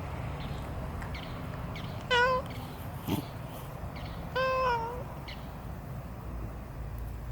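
A domestic cat meowing twice: a short meow about two seconds in and a longer one that falls in pitch at its end about two seconds later. A soft knock comes between them, over a steady low rumble.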